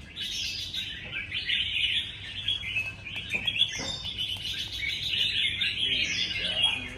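Red-whiskered bulbul singing competitively: a continuous run of quick, chattering notes with brief rising phrases.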